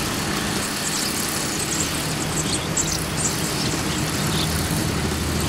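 Short, high bird chirps repeated irregularly over a steady low rumble like distant traffic or an engine.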